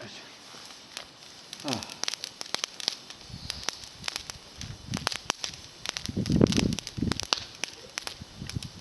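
Campfire of thin climbing-rose twigs crackling, with a rapid, uneven scatter of sharp pops. A louder low rush comes about two-thirds of the way through.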